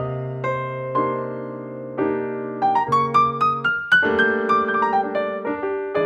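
Background piano music: chords held under a melody, with a rising run of notes in the middle.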